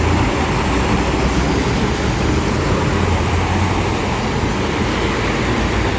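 Steady rush of water and traffic on a flooded road, with a low engine hum underneath.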